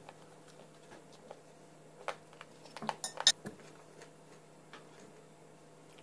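Dishes and cutlery clinking: scattered small clicks, then a quick cluster of sharp clinks about two to three and a half seconds in, the loudest a little past the middle.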